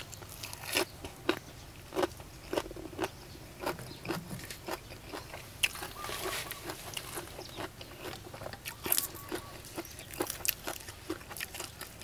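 Close-miked eating: a mouthful of papaya salad wrapped in fresh lettuce being bitten and chewed, with irregular sharp crunches several times a second.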